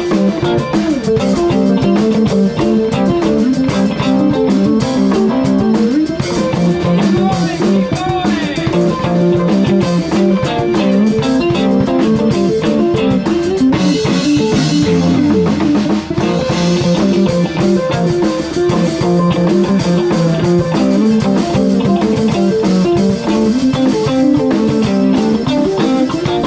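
A live band playing, with guitar over bass and a drum kit.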